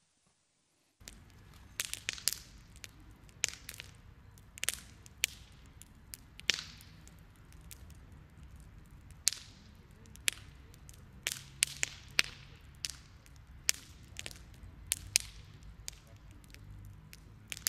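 Campfire crackling, with irregular sharp snaps and pops, one or two a second, over a low steady rumble. It starts about a second in, after a moment of silence.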